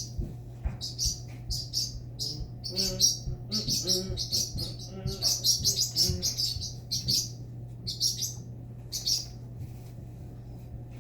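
Pet parrot giving a rapid series of short, high-pitched chirps, which thin out near the end.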